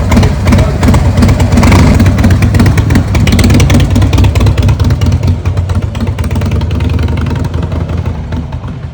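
Freshly rebuilt 2007 Harley-Davidson Fat Boy Twin Cam 96B V-twin engine running, a loud steady low pulsing, soon after its first start. It grows quieter over the last few seconds.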